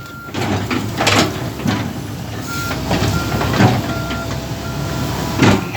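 A vehicle engine running, with a few loud knocks or clunks. From about halfway in, a short high electronic beep repeats steadily, roughly every two-thirds of a second, like a reversing or warning alarm.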